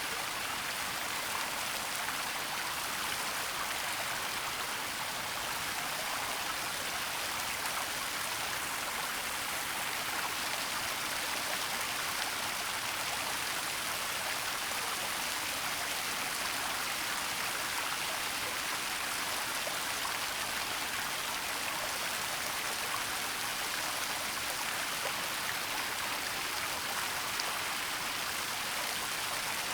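Waterfall and stream water rushing with a steady, even hiss.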